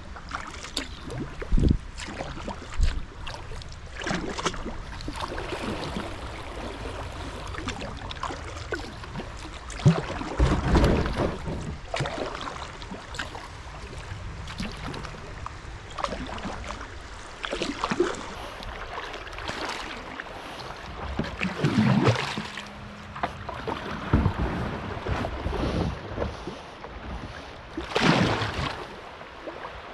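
Kayak paddling through a shallow, rocky riffle: irregular paddle strokes splashing and swishing in the water every few seconds over the steady rush of moving water.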